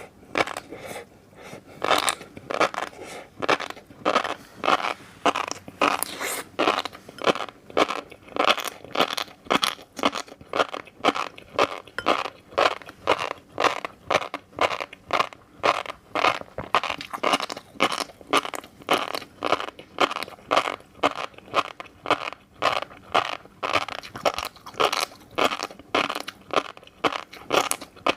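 Close-miked chewing of fish roe, an even run of wet crunches and pops at about two to three a second.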